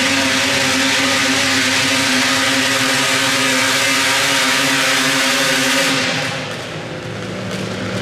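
Modified garden tractor pulling engine running at steady high revs under load, easing off about six seconds in, then picking up again right at the end.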